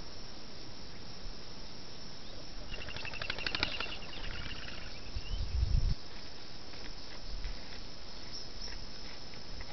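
A bird gives a short, rapid, high rattling call about three seconds in. A low rumble of wind on the microphone builds near the middle and cuts off suddenly. Faint scattered chirps follow.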